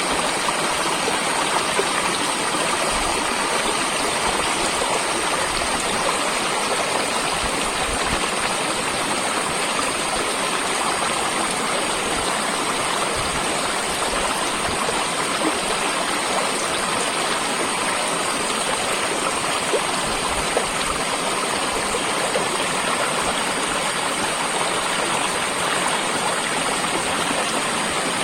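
Running water, steady and unbroken, like a flowing stream.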